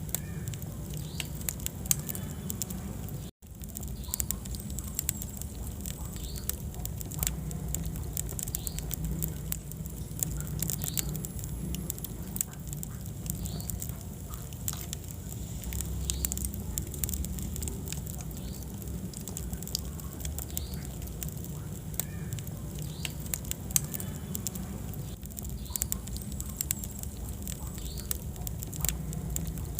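Wood fire burning in a fireplace: steady crackling with frequent sharp pops over a low rumble of flames. Two pops stand out louder, one about two seconds in and one in the last quarter. The sound cuts out completely for a moment just after three seconds.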